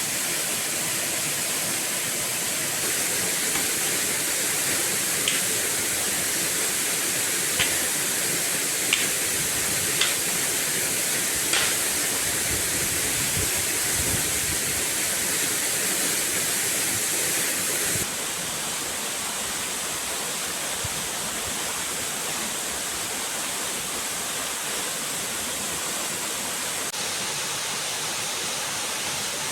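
Steady rush of water, with a few short sharp clicks or knocks about 5 to 12 seconds in. The level drops slightly about two-thirds of the way through.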